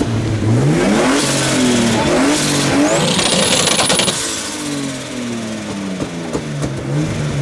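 Modified car engine revving again and again, its pitch sweeping up and falling back. About three seconds in there is a rapid crackle and a brief high whistle.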